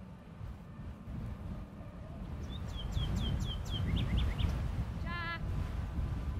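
A songbird sings a quick run of about six falling whistled notes, then a few shorter chirps, over a steady low rumble. About five seconds in comes a brief wavering call.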